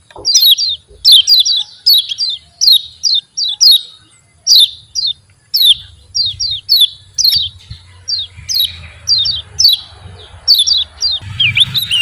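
Kecial kuning, a Lombok white-eye, calling its 'ciak ciak' chips: short, sharp notes that each fall quickly in pitch, a few per second, often in pairs. Near the end the calls come denser and overlap, over a low hum. This is the call keepers play to lure idle white-eyes into singing.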